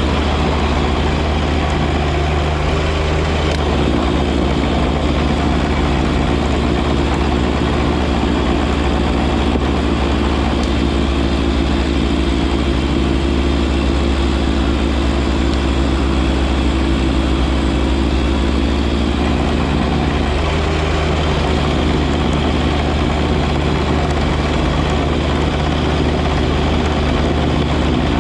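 John Deere 1025R compact tractor's three-cylinder diesel engine running steadily while driving a front-mounted 54-inch snow blower. The engine note shifts slightly a few seconds in and again about twenty seconds in.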